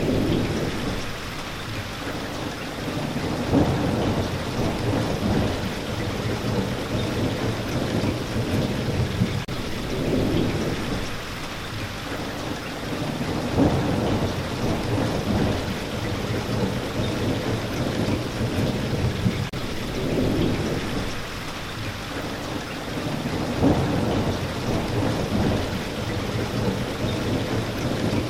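Steady rain pattering, with low rumbles of thunder swelling and fading every few seconds.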